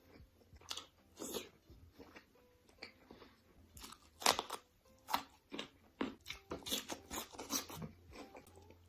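Crunchy food being bitten and chewed: a run of irregular, sharp crunches, loudest and most frequent in the second half.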